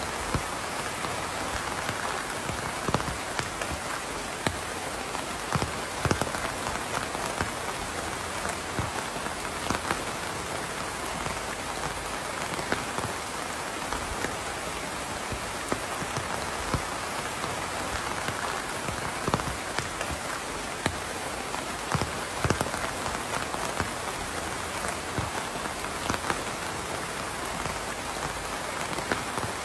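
Steady rain falling, a continuous patter with individual heavier drops ticking sharply on a hard surface every second or so.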